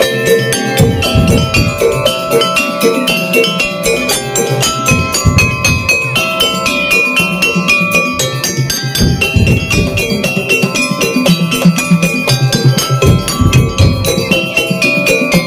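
Madurese daul (tongtong) percussion ensemble playing: heavy drum beats under rapid strikes on tuned metal gongs and bells.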